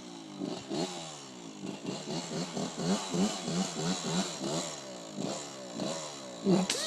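Suzuki RM125 two-stroke dirt bike engine revving in quick repeated surges, its pitch rising and dropping two or three times a second as the rider works the throttle on a hill climb.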